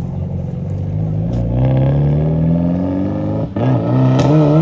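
Car engine accelerating hard away, its revs climbing steadily, then a gear change about three and a half seconds in and the revs climbing again.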